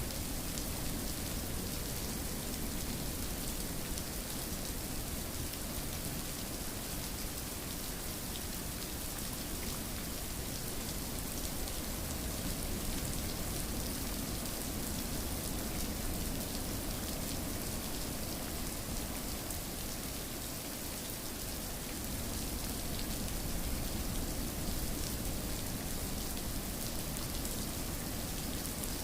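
Steady rainfall, a continuous hiss of rain with faint scattered drop ticks, used as sleep white noise.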